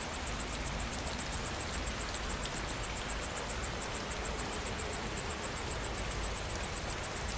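Steady rain falling, with an insect chirping at a high pitch, several chirps a second in an even rhythm.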